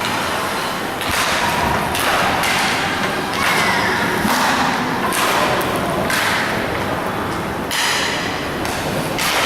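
Inline roller hockey game in play: a run of thuds and knocks, roughly one a second, over a steady noisy rumble.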